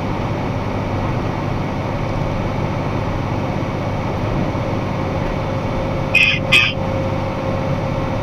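Box truck running down the road, heard from inside the cab: a steady engine hum and road noise. About six seconds in, two short sharp clicks or chirps come close together.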